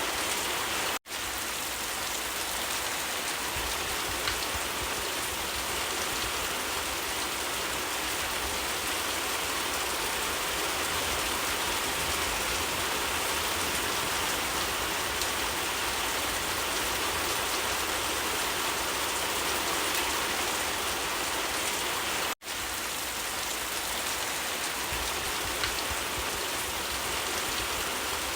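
Steady, heavy rainfall: a dense, even patter of rain on surfaces, broken by two brief dropouts, about a second in and about 22 seconds in.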